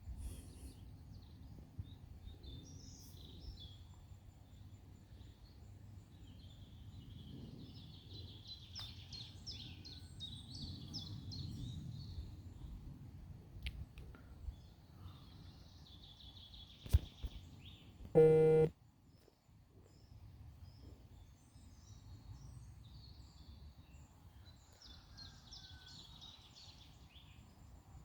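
Outdoor ambience: small birds chirping in short trilling phrases several times over a low steady rumble. About seventeen seconds in there is a sharp click, then a brief, loud, buzzy tone lasting about half a second, the loudest sound.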